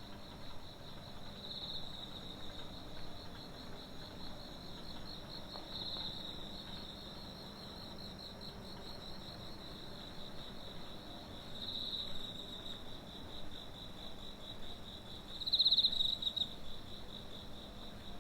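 Crickets chirping in a continuous fast-pulsing trill that swells louder several times and is loudest near the end, over a faint low steady hum.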